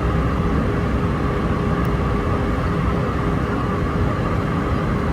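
Steady cabin noise inside an Airbus A319-131 on approach: the drone of its IAE V2500 turbofan engines and the rush of air over the fuselage, with a constant hum tone running through it.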